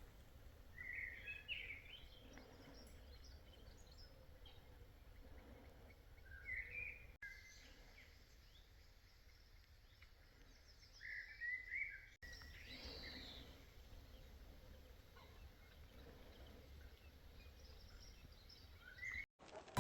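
Faint outdoor ambience of wild birds calling: short chirps and brief call phrases every few seconds over a low rumble.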